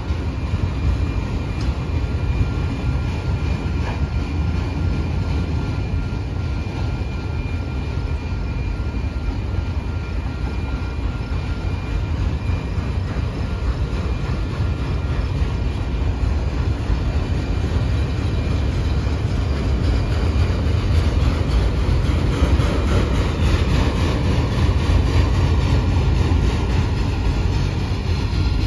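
Freight train cars rolling past close by, a steady heavy rumble of steel wheels on the rails. A faint high steady whine rides over it for much of the first part, and the rumble grows a little louder near the end.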